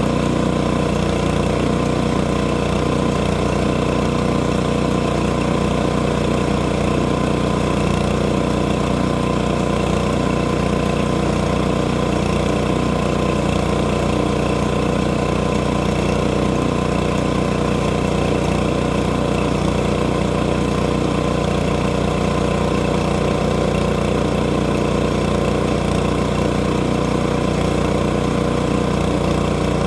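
Portable sawmill engine running steadily at constant speed, with no change in pitch or load.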